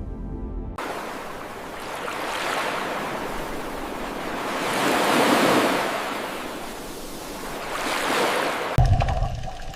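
Sea waves washing in, swelling and fading three times in slow surges about three seconds apart.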